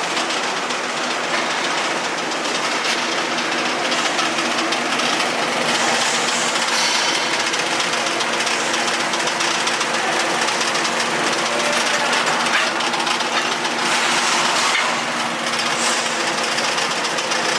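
Arc welding: a continuous, dense crackle of the welding arc over a steady machine hum.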